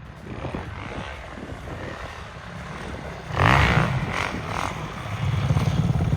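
Dirt bike engine running, with a loud burst about halfway through and the engine growing louder and closer near the end.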